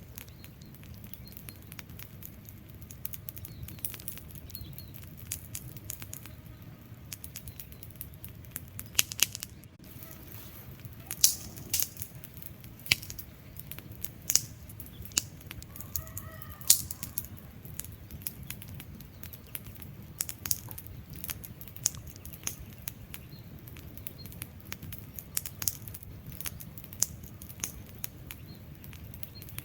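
Wood fire crackling: irregular sharp pops and snaps of burning logs over a steady low rumble of the flames, with a cluster of louder pops in the middle.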